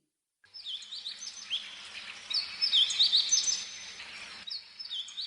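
Small birds chirping with many quick, high notes over a steady background hiss; the hiss drops off abruptly about four and a half seconds in while the chirping goes on.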